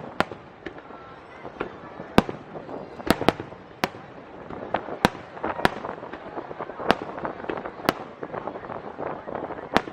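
Aerial fireworks going off: sharp bangs at irregular intervals, about one or two a second, over a steady dense crackling.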